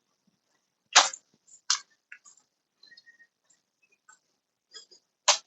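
Handling noise: a few sharp clicks and knocks, the loudest about a second in and near the end, with faint ticks between them as parts are picked up and set down.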